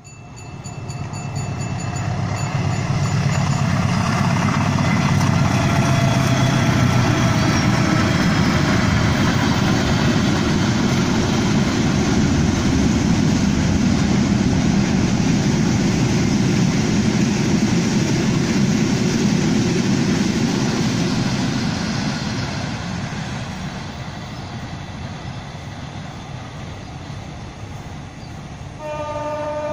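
GE U18C (CC 201) diesel-electric locomotive hauling a container train past: the engine and the rolling of the wagons on the rails swell within a few seconds, hold steady, then fade off after about twenty seconds. A train horn starts sounding near the end.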